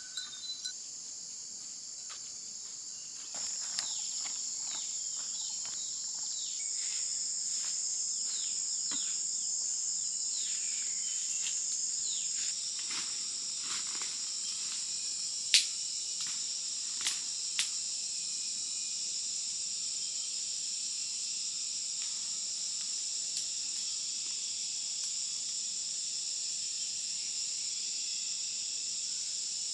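Steady, shrill chorus of insects droning high and continuously. Over the first half come scattered rustles and light clicks, and a few sharp clicks in the middle.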